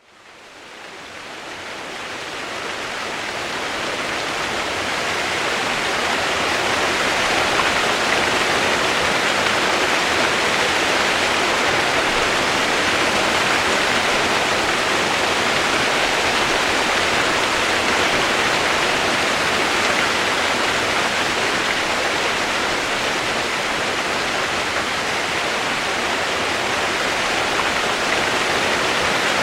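Steady rain sound, an even hiss with no distinct drops, fading in over the first several seconds and then holding level.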